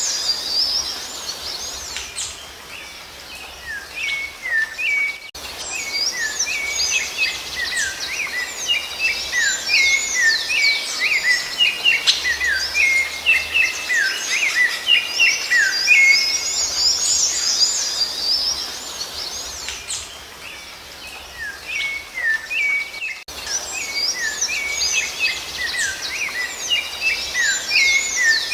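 Dense songbird chorus: many quick chirps and whistled notes overlapping, with abrupt breaks about 5 and 23 seconds in where the recording is spliced.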